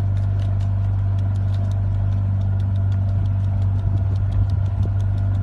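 An engine idling steadily, with a light ticking at about four ticks a second.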